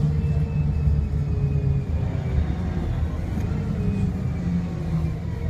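VDL SB200 bus diesel engine and Voith automatic driveline running, heard on board as a steady low rumble. Faint transmission whines drift down in pitch, and one rises again near the end. The engine is one the recorder calls misfiring and very unhealthy.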